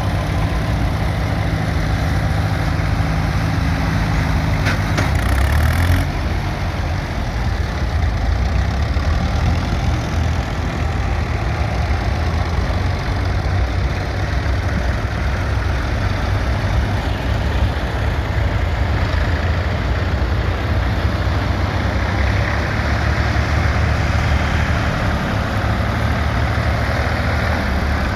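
Vintage tractor engines running steadily, a continuous low drone that changes note about five seconds in.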